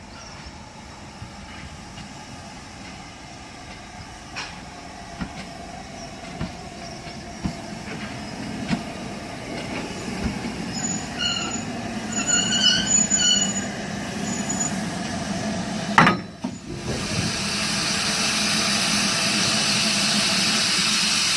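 Model train running along the track, its rumble and rail-joint clicks growing louder as it approaches, with high squeals partway through. About sixteen seconds in a sharp click is followed by a loud, steady hiss that becomes the loudest sound.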